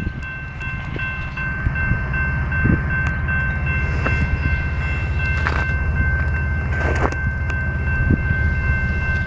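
Diesel freight locomotive, an EMD unit, rumbling as it approaches and growing steadily louder, with steady high-pitched ringing tones held over the rumble.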